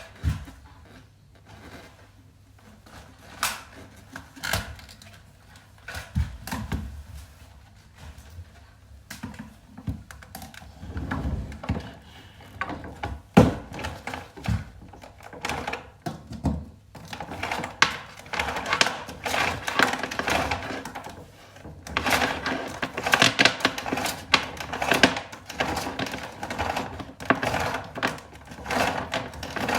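Scattered clicks, taps and knocks from close-up handling, sparse at first and becoming a busy run of clicking and rustling in the second half. There is no steady running vacuum motor.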